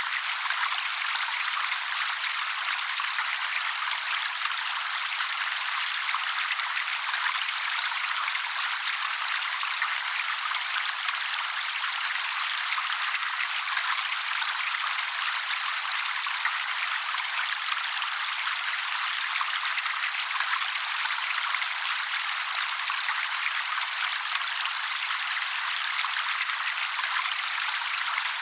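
Steady trickling water, an even splashing hiss with no low tones, holding unchanged throughout.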